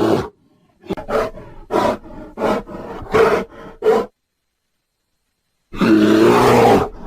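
Bear growling and roaring: a run of about six short growls over the first four seconds, a pause, then one longer, loud growl near the end.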